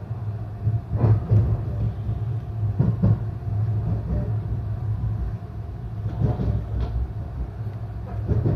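Interior of an Ainokaze Toyama Railway local electric train running, a steady low rumble with the wheels clacking over rail joints several times.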